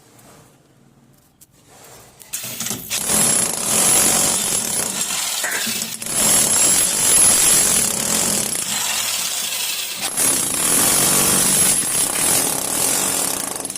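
Handheld power tool cutting into a masonry wall to make a channel for plumbing pipes. It starts about two seconds in and runs loud, a steady high motor whine over a gritty cutting noise, with brief dips about six and ten seconds in.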